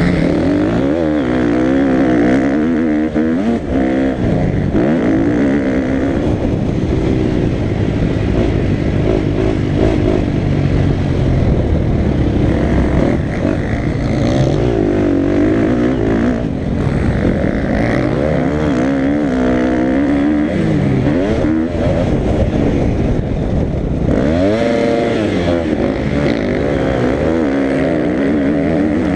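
Motocross bike engine being ridden hard round a dirt track, its pitch rising and falling over and over as the rider opens and shuts the throttle.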